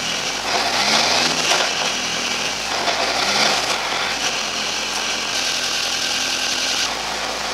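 Millington Mk2 race engine running through a Quaife 60G sequential gearbox as the car is shifted up from second to fourth; the engine note changes at each shift.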